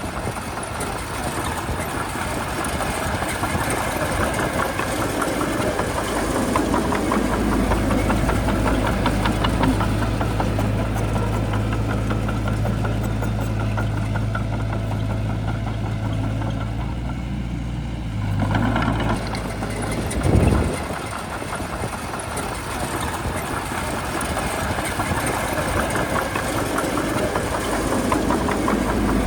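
Shantui bulldozer's diesel engine running with a clattering knock, its deep hum growing heavier for several seconds as if under load, then easing about two-thirds of the way through, with two short loud surges close together.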